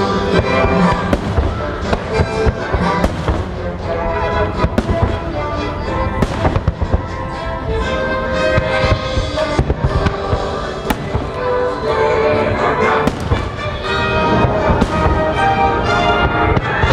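Fireworks bursting at irregular intervals over loud music from a fireworks show soundtrack.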